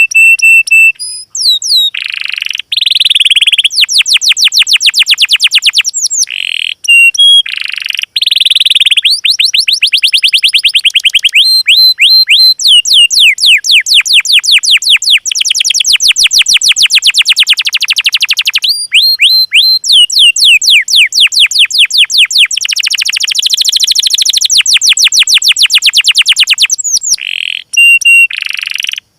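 Small songbird singing: long, rapid trills of repeated notes broken by short high whistles and sweeping chirps.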